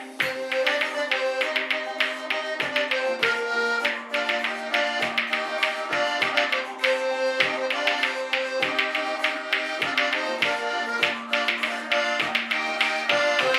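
Instrumental folk music: a melody played over a steady held drone, with a regular percussive beat. It is the instrumental opening of a folk song, with no singing yet.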